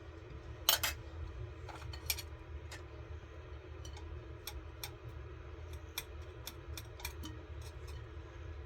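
Irregular light clicks and taps, the loudest about three-quarters of a second in, over a steady low hum.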